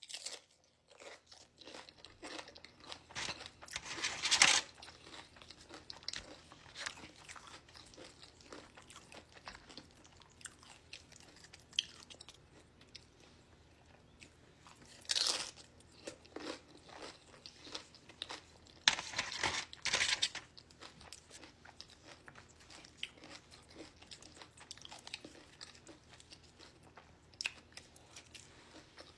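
Close-up chewing and crunching of Flamin' Hot Nacho Doritos tortilla chips, with small crackles throughout and a few loud crunchy bites: one about four seconds in, one about halfway, and a longer one around two-thirds of the way through.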